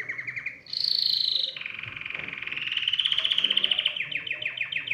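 Domestic canary singing in a fast rolling trill. About a second in comes a louder, higher buzzy note, then another rapid trill that climbs in pitch and breaks into slower separate notes near the end.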